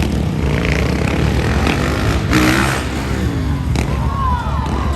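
Motocross dirt bike engine revving hard about two and a half seconds in, its pitch falling away afterwards, over a steady low outdoor rumble.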